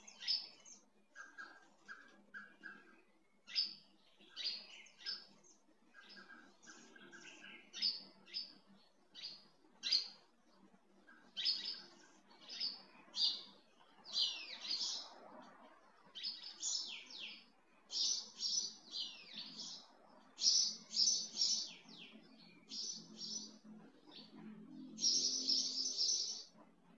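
Small birds chirping and twittering in quick runs of short high calls, densest near the end, over a faint steady hum.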